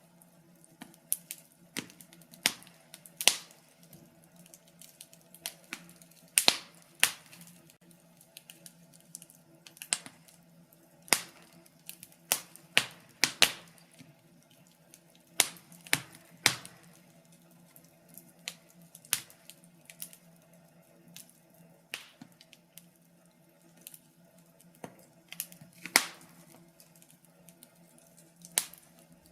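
Wood fire crackling, with irregular sharp pops and snaps of varying loudness, a few a second, over a faint steady low hum.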